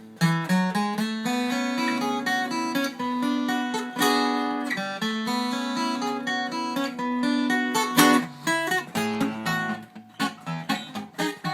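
Taylor 714CE steel-string acoustic guitar being played, just after a neck reset, bridge re-glue and fret levelling. Strummed chords ring out, with strong strums about a second in, at four seconds and at eight seconds, then lighter picked notes near the end.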